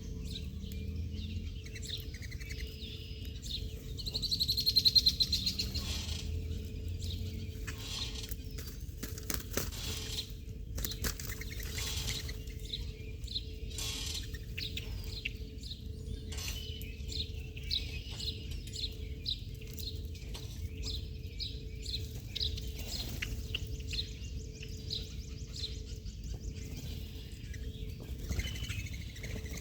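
Small birds chirping and calling throughout, with a louder run of rapid high notes about four seconds in, over a faint steady hum.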